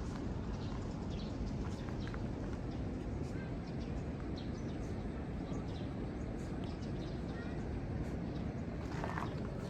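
Steady low rush of ocean surf, with a walker's faint footsteps and a few faint bird chirps.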